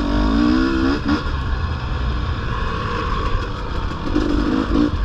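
450cc four-stroke dirt bike engine running under way, its pitch rising and falling as the throttle is worked, most clearly in the first second and again around four seconds in.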